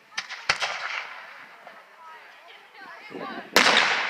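Aerial firework shells going off overhead: two sharp bangs near the start, then a much louder bang about three and a half seconds in that echoes away.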